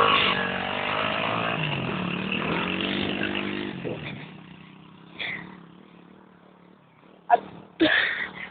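110cc pit bike's four-stroke single-cylinder engine revving, its pitch rising and falling, then dying away about four seconds in. A few short sharp sounds follow near the end.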